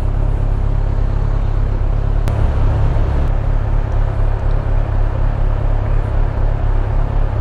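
Inline-four motorcycle running steadily under way, heard as a loud, even low rumble of engine and road noise.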